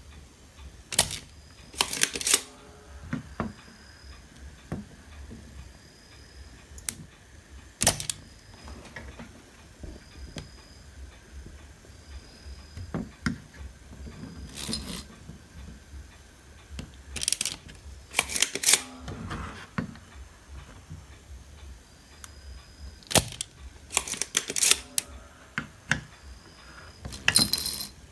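Irregular sharp clicks and metallic clinks, a second to a few seconds apart, from tools and small metal parts being handled while a home theater unit is taken apart, over a faint low hum.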